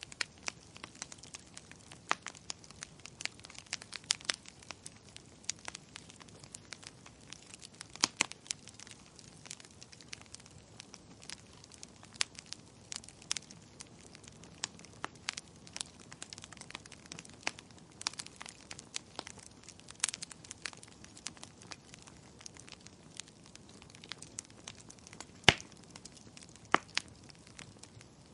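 Wood fire crackling: irregular sharp pops and snaps over a faint steady hiss, with a louder snap near the end.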